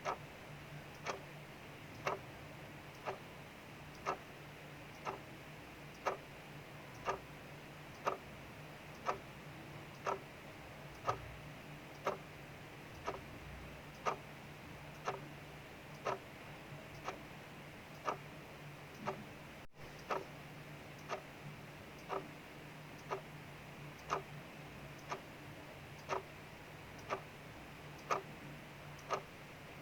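Mechanical clock ticking steadily, about two ticks a second, alternately louder and softer, over a faint steady hiss of rain outside.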